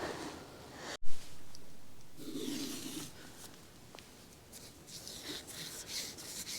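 Handling noise of camping gear: rubbing, rustling and scraping, with a sudden louder rustle about a second in that fades over the next two seconds.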